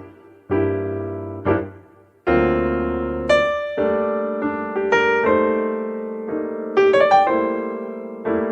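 Cheerful background music played on a piano or electric piano: struck notes and chords that ring and fade, with short pauses between phrases.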